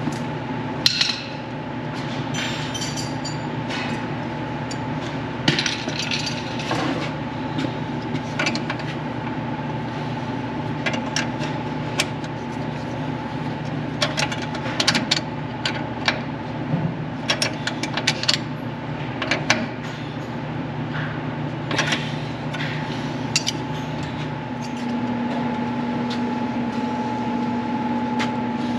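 Duramax diesel truck engine idling as it warms up, a steady drone with scattered metallic clinks and taps of tools over it. Near the end the engine note shifts and grows a little louder.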